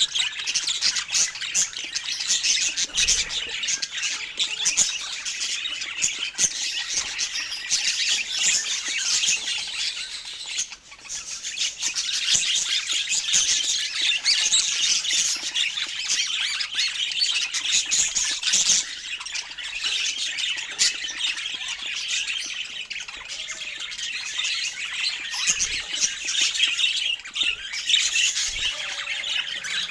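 Many parakeets chattering and chirping without pause, with shrill squawks mixed in. There is a brief lull about eleven seconds in.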